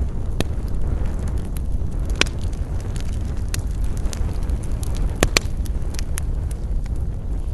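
Campfire burning with a steady low rush and frequent sharp crackles and pops of the wood, a louder pop about two seconds in and a quick double pop past the five-second mark.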